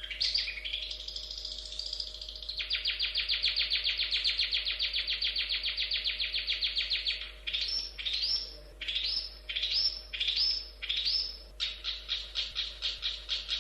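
Long-tailed shrike (cendet) singing: a fast, high, buzzy trill, then a string of separate swooping notes about two a second, then the fast trill again near the end.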